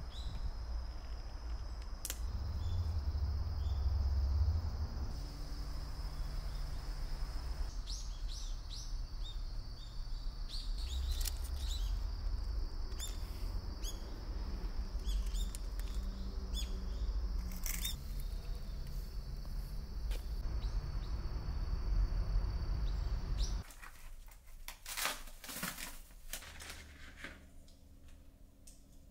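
Small birds chirping outdoors with many short, quick chirps, over a low rumble and a steady high tone. About 24 seconds in it cuts to a quieter room with a few sharp clinks of dishes.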